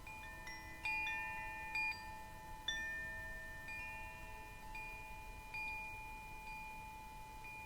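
Chimes ringing: clear metallic tones at several pitches struck one after another, roughly once a second, each left to ring on over the others.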